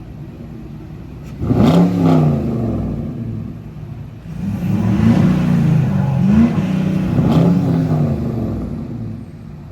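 A car engine revved: one rev about a second and a half in, then a longer run of repeated revs rising and falling from about four seconds in, dying back near the end.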